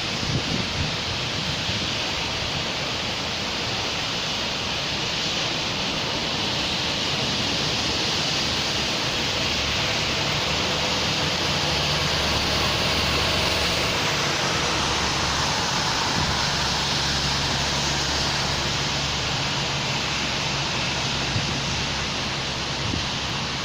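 Steady rain falling on a city street, an even hiss, with a vehicle passing on the wet road that swells the hiss and adds a low engine hum around the middle.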